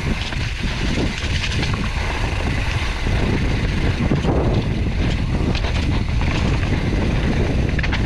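Wind buffeting the microphone of a mountain bike rider descending fast, with the bike and tyres rattling and knocking over the rough trail.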